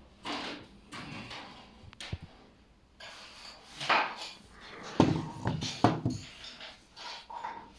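Handling noise from a large steel truck wheel hub bearing being picked up, turned and set down: scattered rubs and knocks, with a quick run of sharp clunks about five to six seconds in.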